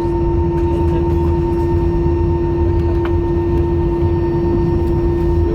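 Steady cabin drone of an Airbus A318 airliner: a low rumble under a constant mid-pitched hum and a fainter, higher steady whine.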